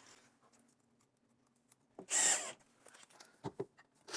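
A short scrape about two seconds in, followed by a few light knocks, from wooden sauna bench parts being handled and fitted.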